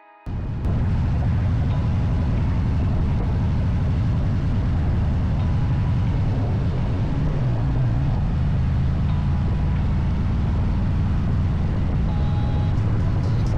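Harley-Davidson Street Glide's V-twin engine running while riding at a steady pace, a loud, even low rumble.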